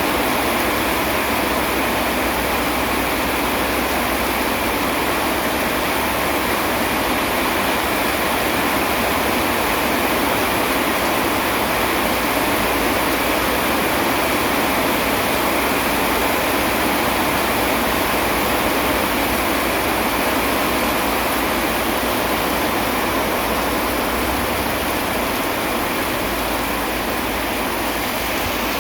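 Steady rain falling, an even rushing hiss that does not change.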